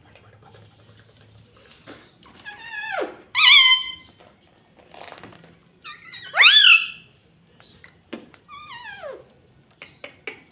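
Ringneck parrot giving a series of shrill squawking calls, each sliding in pitch, the loudest two about a third and two thirds of the way in.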